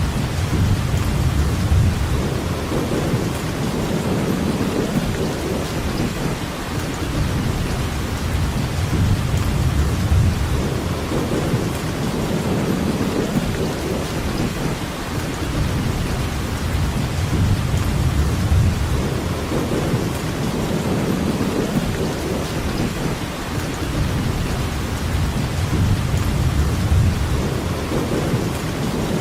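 Steady heavy rainfall, with a deep low rumble that swells and eases every few seconds.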